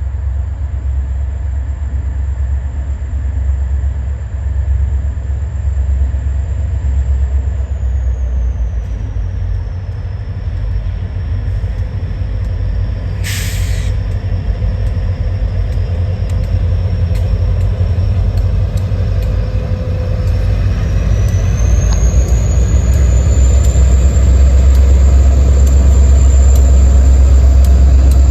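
Diesel freight locomotive running with a heavy low rumble and a high whine that drops in pitch and later climbs back, growing louder toward the end. A short sharp hiss of air about halfway through.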